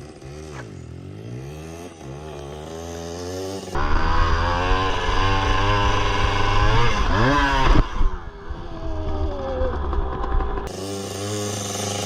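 Pit bike engine revving hard, its pitch climbing and dropping over and over as the rider works the throttle. It becomes much louder and closer from about four seconds in, and there is a brief sharp drop and rise in the engine note near eight seconds.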